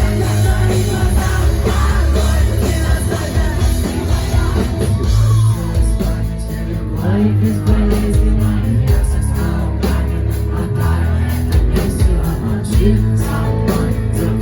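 Rock band playing live, with sung vocals over a heavy bass-driven mix.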